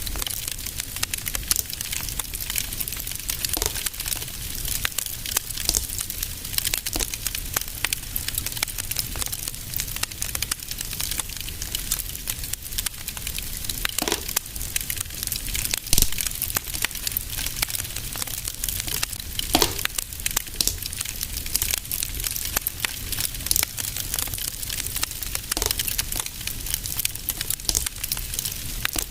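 Wood fire burning in a fireplace, crackling steadily with dense small snaps and several louder pops, over a low rumble.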